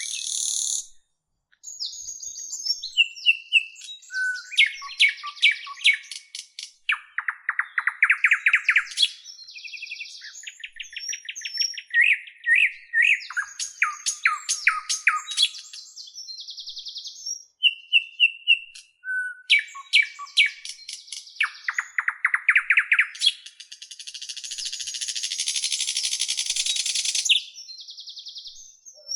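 A bird singing a long, varied song of high whistles, rapid trills and chirps, with the same run of phrases repeated partway through. A harsh rasping sound lasts several seconds near the end.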